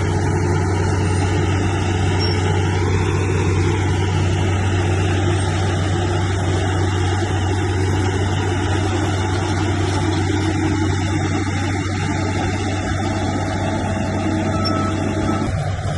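Diesel engine of heavy earthmoving machinery running steadily with an even low hum.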